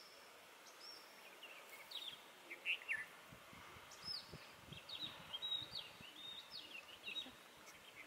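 Birds chirping: scattered short, quick sliding notes, some in little clusters, over a faint steady hiss.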